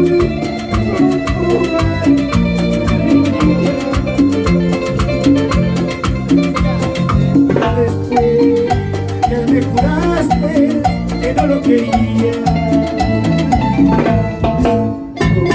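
Live tropical dance band playing an upbeat Latin tune, with a driving bass line, busy percussion and a melody over the top; it pauses briefly just before the end.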